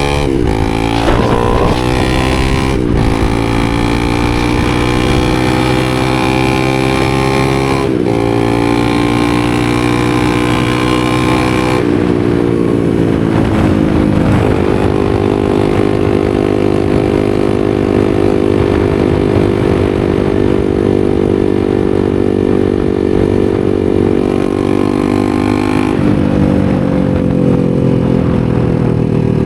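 A 250 cc supermoto motorcycle engine running at mostly steady revs. The note dips briefly a few times and drifts slowly lower near the end.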